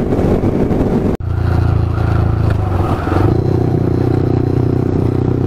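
Yamaha R15 V3's single-cylinder engine running steadily on the move. The sound breaks off for an instant about a second in, and the engine's pitch dips briefly around three seconds in before settling again.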